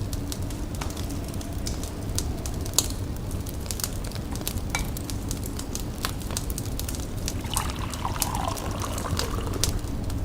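Wood fire crackling with scattered sharp pops over a low rumble. About three-quarters of the way through, a wavering run of liquid pouring joins in, as tea is poured.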